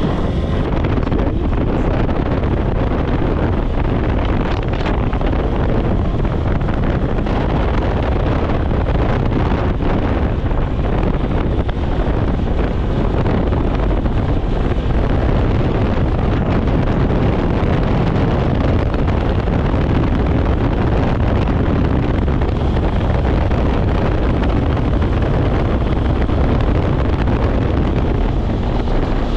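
Steady wind rushing over the action camera's microphone on a moving motorcycle, with a low rumble of road and motor noise underneath.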